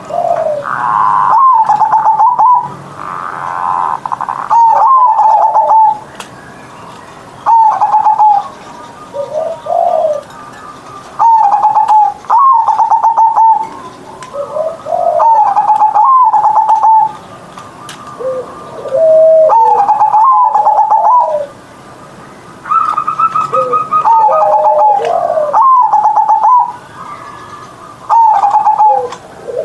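Zebra dove (perkutut) singing its full-voiced cooing song: loud, stuttering, trilled coo phrases repeated about every two to three seconds, with softer, lower notes in between.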